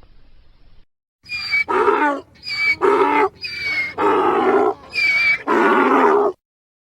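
Donkey braying: a run of about four hee-haws, each a high, wheezy intake followed by a lower, louder call, stopping suddenly near the end.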